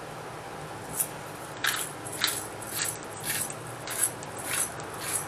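Hand-twisted pepper grinder cracking a four-peppercorn blend, a run of short grinding crunches about two a second, starting about a second in.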